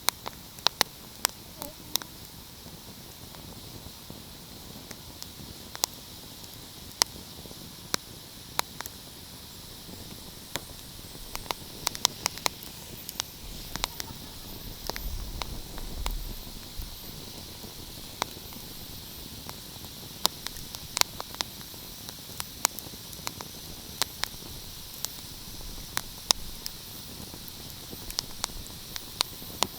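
Wood fire crackling: irregular sharp pops and snaps over a steady hiss. A low rumble swells briefly about halfway through.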